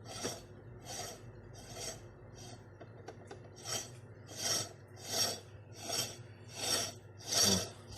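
Steel threads rasping as a machined threaded cup is screwed tightly by hand onto a KamAZ hydraulic cylinder's 150 mm, 1.5 mm-pitch thread. There is a short scrape with each turn, about one and a half a second, growing louder from about halfway through.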